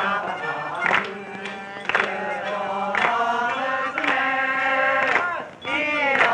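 Singing with long held notes over a sharp beat that comes about once a second.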